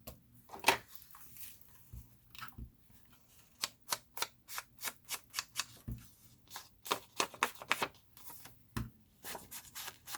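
Paper and card pieces being handled and shuffled by hand: a string of short rustles and light taps, few at first and coming thick and fast from about three and a half seconds in.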